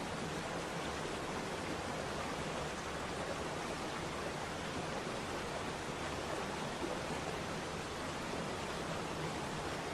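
Waterfall: falling water making a steady, even rushing.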